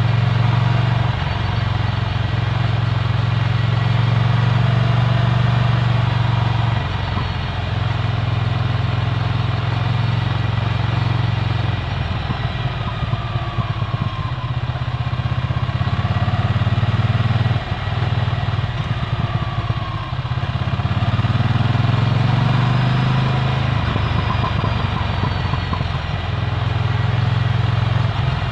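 Ducati Scrambler Full Throttle's L-twin engine through a Termignoni exhaust, running steadily on the move. Its note drops off briefly several times and climbs in pitch about three-quarters of the way through.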